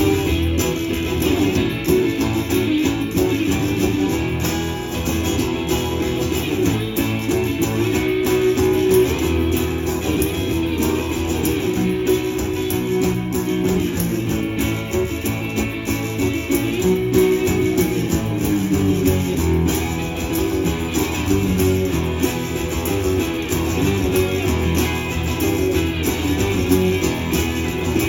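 Live blues music: an instrumental guitar break with no singing.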